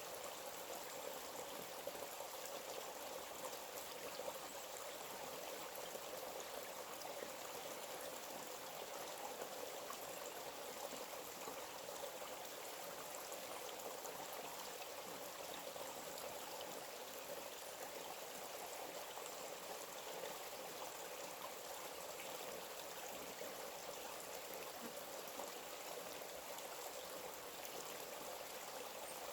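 Forest stream flowing: a steady, even rush of running water with no let-up.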